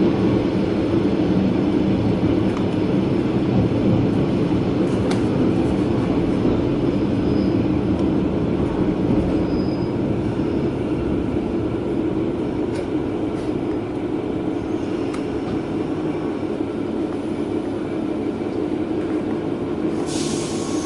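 A KiHa 120 diesel railcar running along the line, heard from inside the car: a steady low rumble of engine and wheels on the rails, with a few faint clicks and a brief high hiss near the end.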